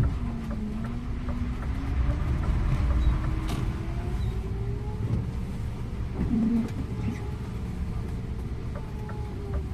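Scania InterLink bus's engine and drivetrain running, heard from the driver's seat, with a whine that rises in pitch over the first few seconds as it picks up speed and then holds steady. A sharp thump comes right at the start, and light clicks and rattles are scattered throughout.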